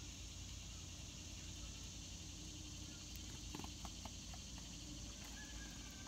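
Quiet outdoor ambience with a steady high hiss. About three and a half seconds in there is a quick run of short clicks or chips from small birds feeding on scattered seed, and near the end a thin, slightly falling whistled bird note.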